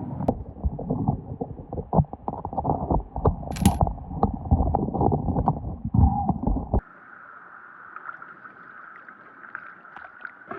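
Water sloshing and gurgling around the microphone, with stones clicking and knocking, while snorkelling and sniping in a creek bed. About seven seconds in it cuts off suddenly to a quieter, steady hiss.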